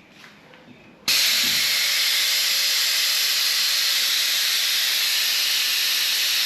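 Vacuum brake bleeder switched on about a second in, hissing steadily as it draws brake fluid and air out of the motorcycle's brake caliper during bleeding.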